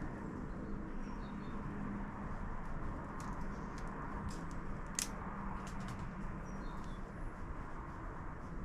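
Steady outdoor background hum with a few faint sparrow chirps and scattered sharp clicks, one louder click about five seconds in.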